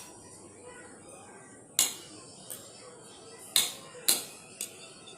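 Metal utensil clinking against dishware: five short, sharp clinks spaced irregularly, about half a second to a second apart.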